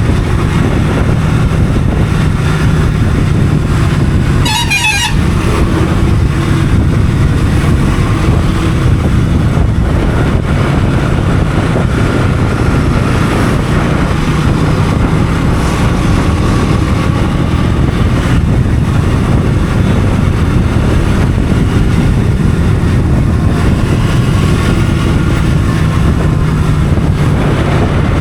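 Motorcycle running steadily at road speed, with a constant rush of road and air noise. A brief horn toot sounds about four and a half seconds in.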